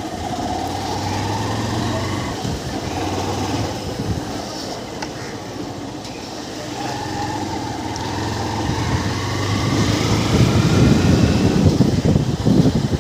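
Honda Unicorn motorcycle's single-cylinder engine running on a test ride after a worn gearbox/clutch-side bearing was replaced, its note rising twice as it accelerates and getting louder near the end. No bearing growl is singled out: the rebuilt engine is said to run smoothly in gear.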